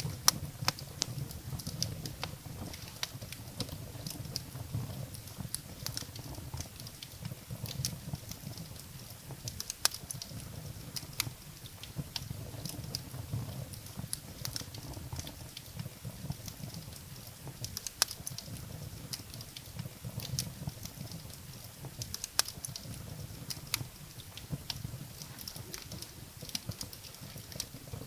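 Wood fire burning in a fireplace, with frequent irregular sharp crackles and pops from the burning firewood over a low, steady rumble of flame.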